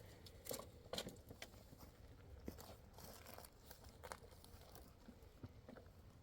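Faint footsteps crunching on a rough mountain path, a few sharp steps in the first second and a half and another around four seconds in, otherwise near silence.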